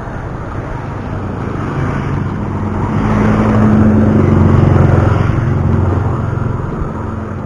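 A motor vehicle passing close by: its low engine hum grows louder, peaks about halfway through, then fades away, over steady road and wind noise.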